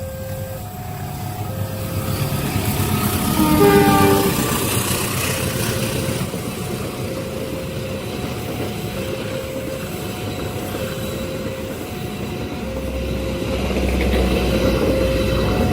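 Level-crossing warning alarm sounding its alternating two-note chime over and over, while a train sounds a short horn blast about four seconds in and then rumbles past the crossing, growing louder near the end.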